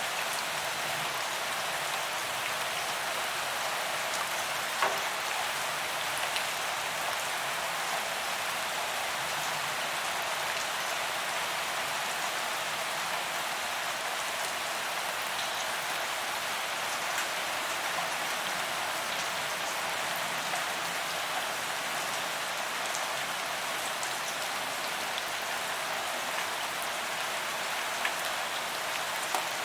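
Steady rain falling on a paved sidewalk, an even hiss of drops on the pavement with occasional sharper single drop hits, the clearest about five seconds in.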